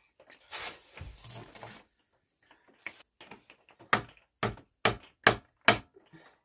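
A brief rustle, then a run of sharp knocks, about two a second, of a hard object striking a hard surface.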